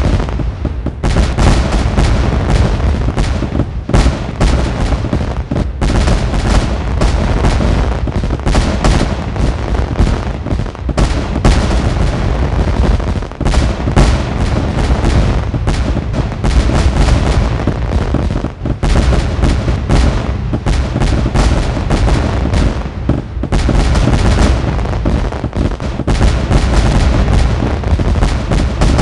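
Fireworks bursting in a continuous rapid barrage: overlapping bangs and crackles with a deep rumble underneath, almost no gaps between them.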